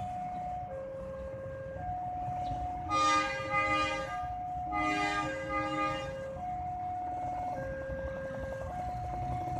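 Level crossing warning alarm sounding two alternating tones, each held about a second, while a train horn blows two blasts about a second long, about 3 and 5 seconds in; the horn is the loudest thing, over a low rumble.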